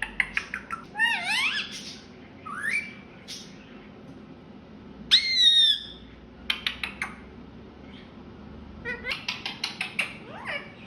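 Indian ringneck parrot chattering and squawking: quick rising chirps at the start, one loud squawk about five seconds in, then runs of rapid short clicking notes.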